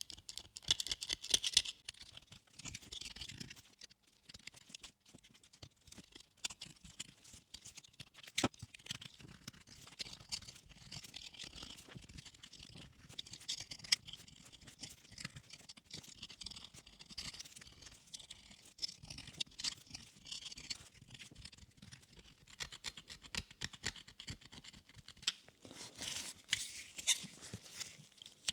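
Hands working on a motorcycle headlight assembly: irregular small clicks, taps and scraping of parts being handled. A louder cluster comes about a second in, and a single sharp click about eight seconds in.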